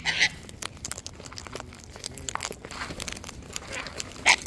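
Sulphur-crested cockatoos cracking and chewing seed close to the microphone: a dense run of sharp crunching clicks, with short harsh bursts just after the start and near the end.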